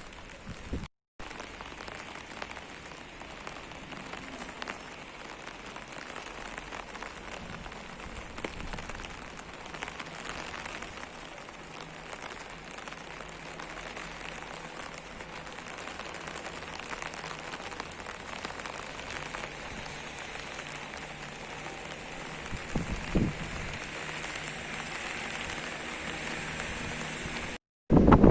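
Steady rainfall: an even patter of raindrops on surfaces, with one brief low thump near the end.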